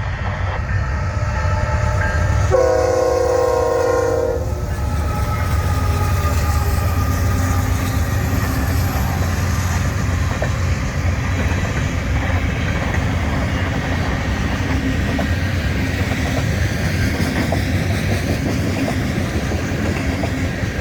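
Diesel-hauled mixed freight train passing, its locomotive horn sounding one blast about three seconds in. After that come the steady rumble and clatter of freight cars rolling by on the rails.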